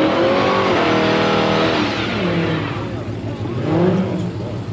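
A car engine revving hard: the pitch climbs and holds high for about a second, drops away around two seconds in, then a second, shorter rev comes near the end.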